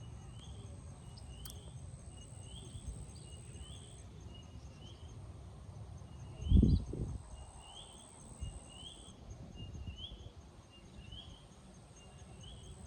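Outdoor nature ambience: a bird repeats a short rising chirp about once a second over a steady high-pitched insect drone. Low wind rumble sits on the microphone, with one loud bump about halfway through.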